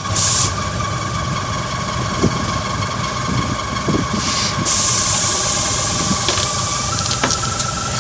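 Vehicle engine running steadily, with a short burst of loud hissing at the start and a second long hiss from a little past halfway.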